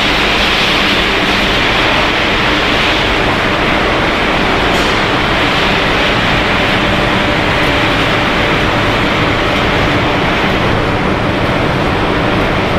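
Continuous fryer production line running: a steady, even machinery noise with a faint low hum underneath.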